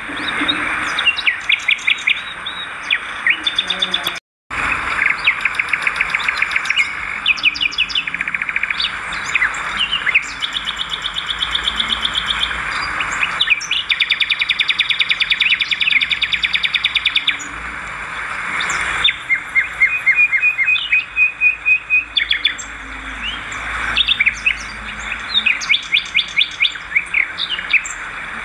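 Swiftlets twittering, a dense run of rapid chirps and buzzy trills. All sound cuts out briefly about four seconds in.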